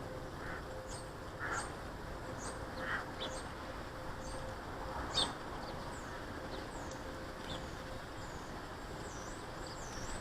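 Small garden birds calling: a dozen or so short, high chirps that drop in pitch, scattered through, with a few harsher, lower chirps in the first three seconds, over a steady background hiss and a faint hum.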